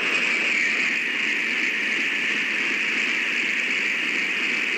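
A Shinkansen bullet train passing at high speed: a steady rushing noise of air and wheels on rails.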